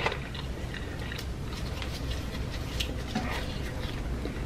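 Close-miked chewing of fried food: wet mouth clicks and smacks scattered irregularly over a low steady hum.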